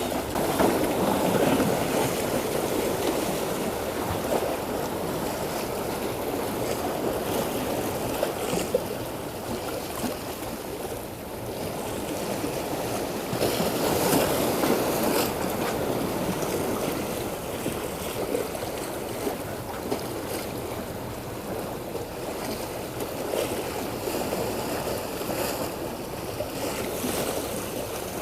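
Sea water washing and splashing against a boat, with wind on the microphone; a steady, surging noise that swells and eases.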